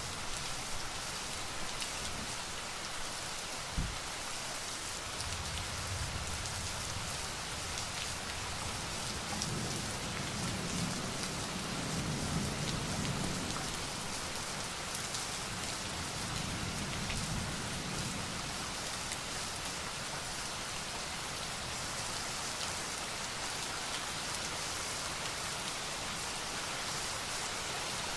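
Steady rain falling on a hard surface, with one sharp tap about four seconds in and a low rumble of thunder swelling and fading from about ten seconds in.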